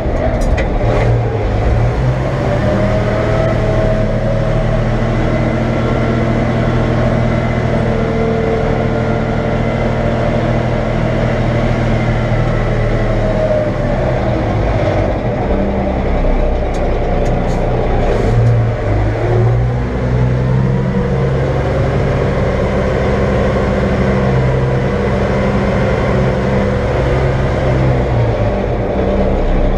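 A heavy diesel engine running steadily under load, its pitch dropping and shifting for a few seconds near the middle before settling back.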